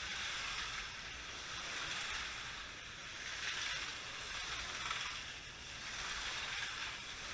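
Slot cars running laps on a track: a steady whirring hiss from their small electric motors that swells and fades every second or two as the cars pass.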